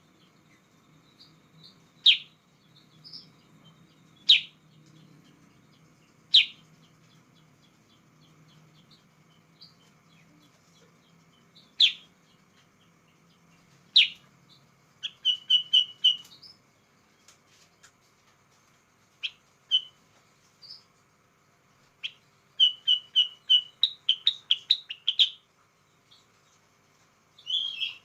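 Kutilang sutra bulbul singing: loud, sharp downward-sweeping whistled notes about every two seconds, then in the second half quick runs of short repeated chirps in fast bursts.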